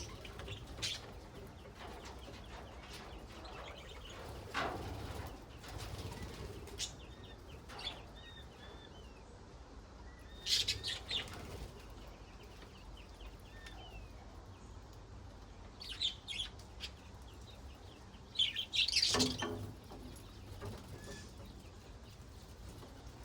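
Pet budgerigars chirping and warbling in short, scattered calls, with louder bursts of chatter about ten seconds in and again near the end.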